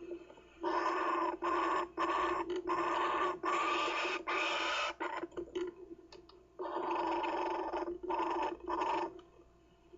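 Kookaburra chick giving harsh, rasping calls in repeated bursts: six close together, a pause of over a second, then three more.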